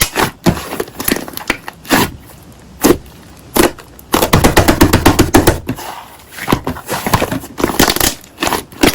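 Slime being squeezed and pressed by hand, giving irregular sticky pops and crackles, with a dense run of quick clicking pops around the middle.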